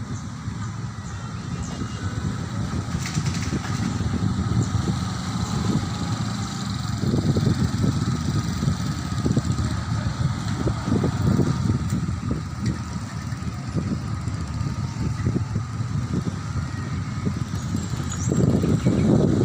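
Airplane passing overhead: a steady low rumble that swells and eases, with a faint high steady whine over it.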